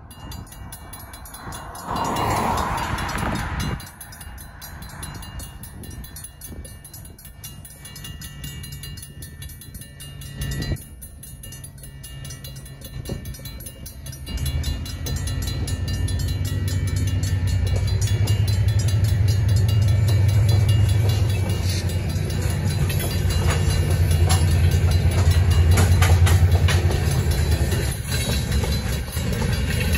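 A switching train of tank cars, shoved by diesel switchers, approaches and rolls through a grade crossing. From about fifteen seconds in, a low steady rumble builds and holds, with wheels clicking over the rail as the tank cars pass. A brief loud sound comes about two seconds in.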